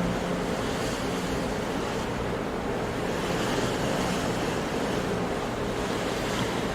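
Sea waves and surf washing in a steady, unbroken rush, with no single breaker standing out.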